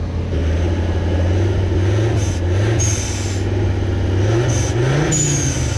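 Stuck off-road 4x4 with an automatic gearbox, its engine revving up twice in gear under load while the vehicle will not pull away. A thin high squeal rises briefly with each rev.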